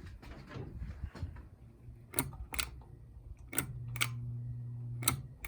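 Honeywell Belmar ceiling fan's pull-chain speed switch clicking as it is pulled through its settings to medium: six sharp clicks in three pairs, under the fan motor's low steady hum, which gets stronger about three and a half seconds in.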